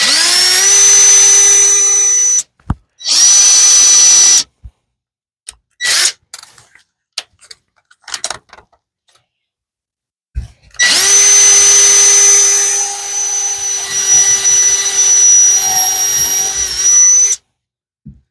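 Electric drill boring holes in wood, run in three bursts: a short one that spins up quickly at the start, another short one, then a longer run of about six seconds that cuts off suddenly. Between the runs come scattered clicks and knocks of the drill and wood being handled.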